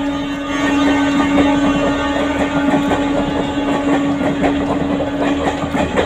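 A train moving along the track: a steady droning tone runs throughout, with quick irregular wheel clicks over the rails building up from about a second in.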